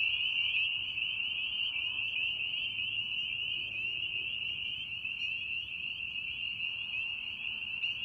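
A chorus of spring peepers: many small frogs giving short, high, rising peeps that overlap into one continuous din.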